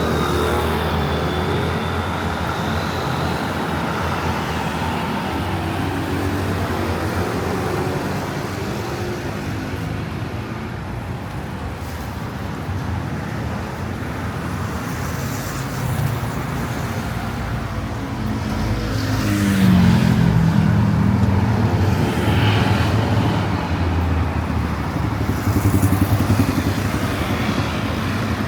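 City street traffic: a steady wash of road noise with vehicle engines. One vehicle passes closer about two-thirds of the way through, and the sound swells.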